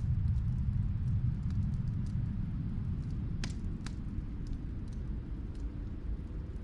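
Low, steady rumble of snowstorm wind, easing off slightly, with sparse crackles and pops from a wood fire; two louder pops come a little past the middle.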